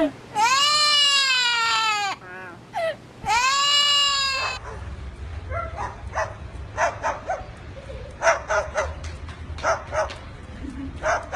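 A talking bird mimicking: two long wailing cries that rise and fall in pitch, then, over a low hum, a run of short yapping calls like a small dog.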